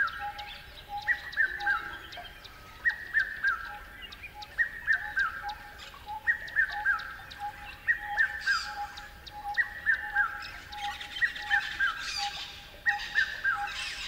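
Songbirds singing: one repeats a short phrase of three or four falling notes about every second and a half, over a steady string of lower pips, with a few harsher calls joining in after the middle.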